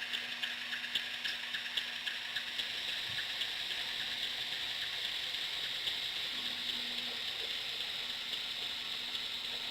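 HO-scale model diesel locomotive running along its track: a steady mechanical whirring of its motor and gears. Light clicks come through in the first few seconds.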